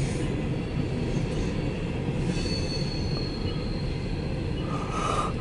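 Empty coal cars of a CSX freight train rolling past with a steady rumble of wheels on rail. A thin, high wheel squeal rises briefly about halfway through, and a lower squeal starts near the end.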